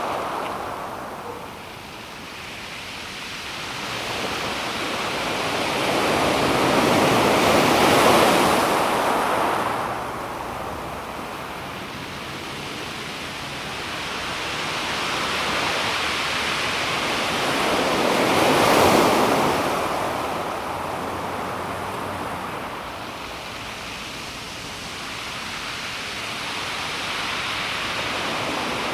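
Calm sea waves washing onto a pebble beach. Two waves swell and fade slowly, the first loudest about eight seconds in and the second about nineteen seconds in.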